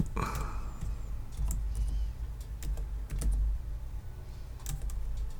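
Typing on a computer keyboard: irregular, scattered keystrokes in small runs with pauses between, over a low steady hum.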